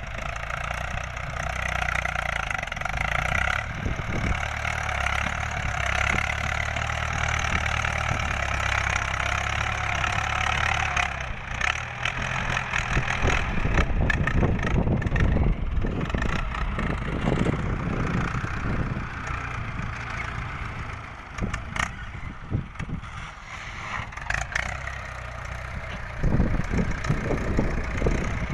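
Ford 6600 tractor's three-cylinder diesel engine running, steady for the first ten seconds or so, then more uneven with scattered knocks and clatter.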